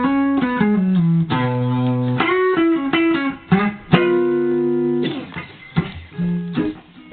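Blues guitar break of plucked single notes and ringing chords, with a falling bass run about a second in, thinning out near the end.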